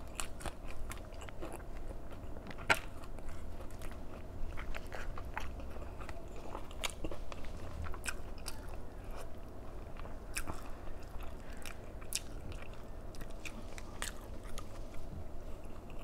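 Close-miked mouth sounds of a person eating: steady chewing and biting with many small, irregular crisp clicks, and one sharper click a little under three seconds in.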